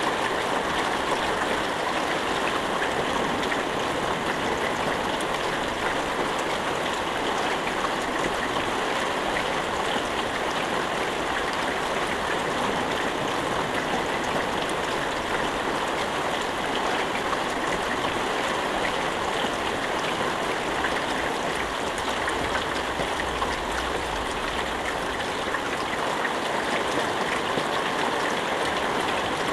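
Steady rain falling without thunder: an even, unbroken hiss with a fine patter of drops.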